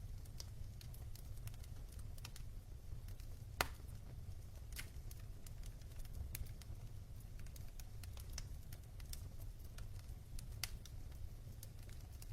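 Wood fire of burning logs crackling, with irregular sharp pops and one louder pop about three and a half seconds in, over a steady low rumble.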